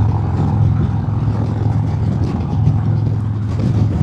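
Harley-Davidson Road King's Milwaukee-Eight V-twin running steadily at highway cruising speed, a constant low drone as heard by the rider.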